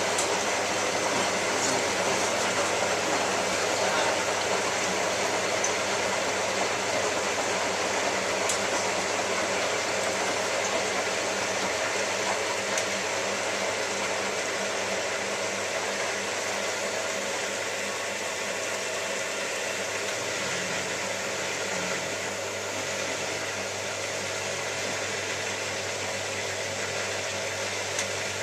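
Hotpoint 9534A washing machine running a Cotton 85 descaling wash: a steady rushing noise with a low hum, slowly getting a little quieter.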